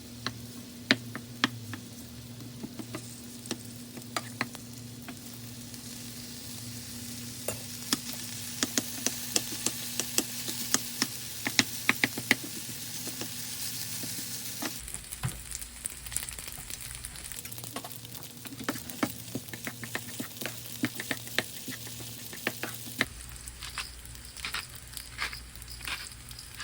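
Vegetable fried rice sizzling in a frying pan while a spatula stirs and scrapes it, with frequent sharp clicks against the pan, thickest about a third of the way in.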